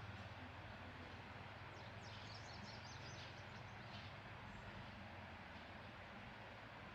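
Faint outdoor ambience: a steady low hum under a soft hiss, with a few brief high chirps about two to three seconds in.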